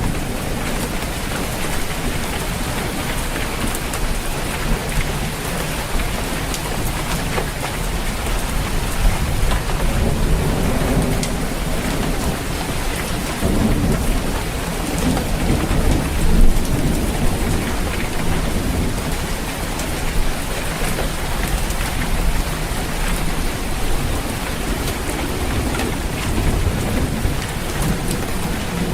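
Rain falling steadily on a roof, with low thunder rumbling underneath and swelling a few times.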